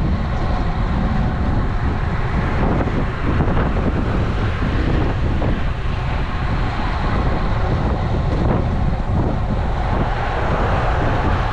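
Wind buffeting an action camera's microphone on a moving road bike, a steady rushing roar with road and tyre noise beneath it.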